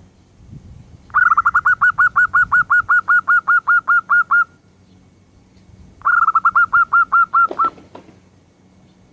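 A bird calling loudly close by: two bouts of rapid, evenly repeated sharp notes, about five a second. The first lasts about three seconds; the second is shorter and ends on a lower, falling note.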